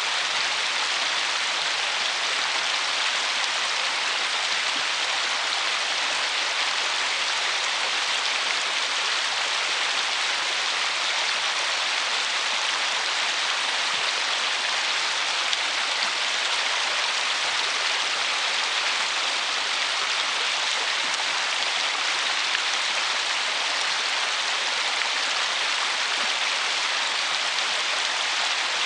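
River water rushing and splashing over a shallow rocky riffle, a steady even hiss with no change in level.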